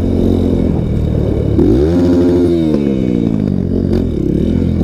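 Trail motorcycle's single-cylinder four-stroke engine running under way. About two seconds in it revs up sharply, holds for a moment, then eases off as the throttle closes.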